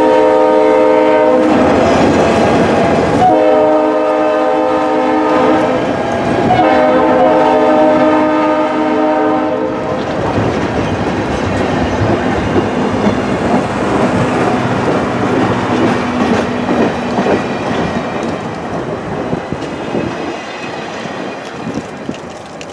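A passing freight-and-passenger train: its locomotive horn sounds, one blast cutting off about a second in, then two long blasts. The horn then stops, and the cars' wheels clatter over the rail joints as boxcars and a passenger coach roll by, fading as the train pulls away.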